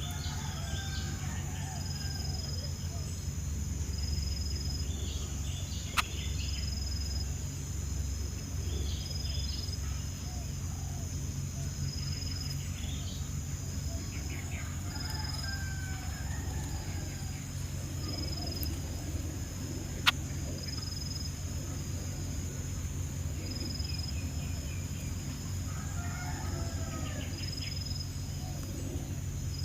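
Small birds chirping in short, scattered bursts over a steady, high insect drone, with two sharp clicks, about six seconds in and near twenty seconds.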